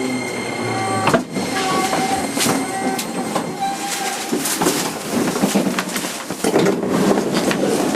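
Onboard running sound of a JR 205 series 5000-subseries electric train motor car (MoHa 205-5022) in motion, with steady running noise and repeated sharp clicks from the wheels over the track. A few short steady motor tones sound in the first half.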